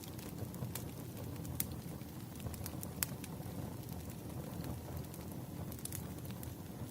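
Wood fire burning: a steady low rumble of flames with sharp, irregular crackles and pops from the burning logs.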